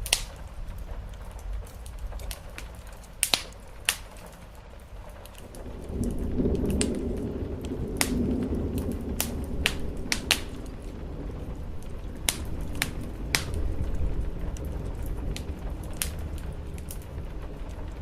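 Wood fire crackling, with sharp pops every second or so, over the steady patter of rain. About six seconds in, a low rumble comes up and carries on under the crackle.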